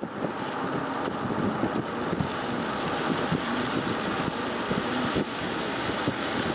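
Steady road and engine noise of a moving car heard from inside the cabin, mixed with wind.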